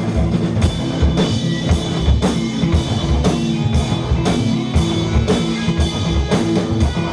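Live rock band playing an instrumental passage: a drum kit keeps a steady beat of about two hits a second under droning bass and electric guitars.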